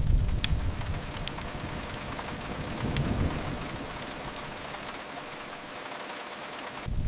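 Steady rain hiss mixed with the scattered sharp pops of a crackling wood fire. A deep low rumble fills the first second or so, fades, and swells briefly again about three seconds in.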